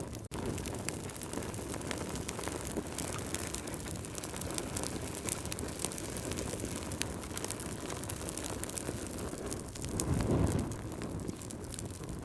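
Log fire crackling in a fireplace: a steady low rush of flame with many small sharp crackles and pops, swelling briefly about ten seconds in.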